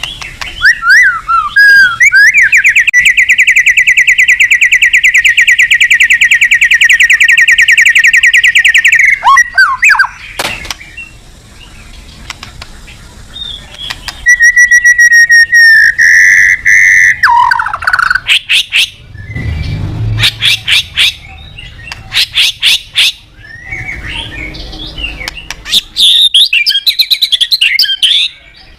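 White-rumped shama singing hard: a loud, fast, even rattling trill lasting about seven seconds, then, after a pause, clear whistled notes and bursts of rapid clicking notes.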